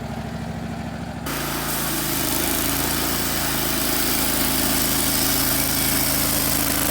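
Wood-Mizer LT15 Wide portable sawmill's gas engine idling with a low pulsing beat, then about a second in throttled up with the band blade engaged, becoming a steady, louder hum with a high rushing hiss that grows slightly.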